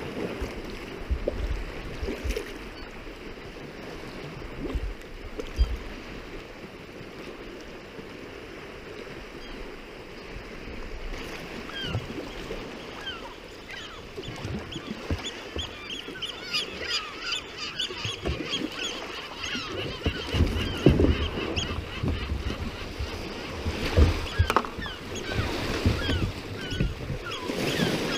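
Water sounds around a sea kayak, with low bumps of wind on the microphone. From about halfway through, a flock of birds calls, many short chirping calls at once, growing busier towards the end.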